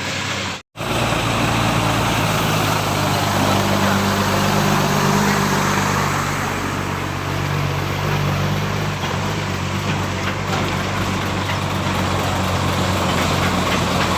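Engine of a heavy road vehicle running steadily, with a constant low hum and road noise. The sound cuts out completely for a moment just under a second in.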